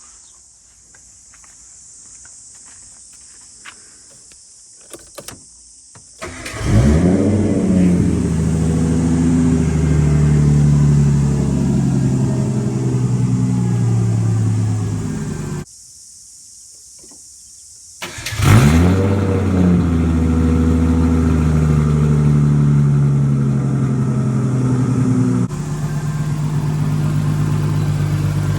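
Turbocharged Nissan RB20E straight-six with a big turbo and screamer pipe starting: it catches about six seconds in with a quick rise in revs and settles into a steady fast idle. It stops abruptly, catches again about eighteen seconds in and runs on steadily.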